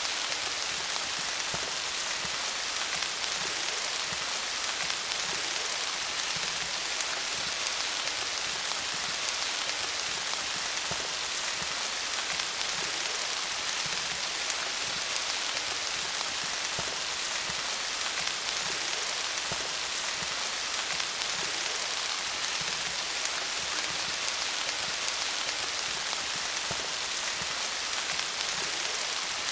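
Steady rain falling on leaves, a dense even patter of many small drops.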